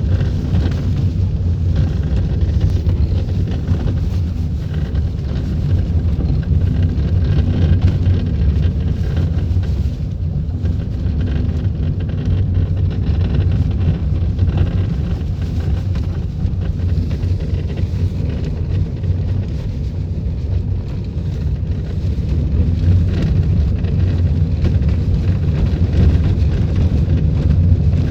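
Steady low rumble inside a Volkswagen Polo, taken near the steering column where the owner is hunting an unexplained noise.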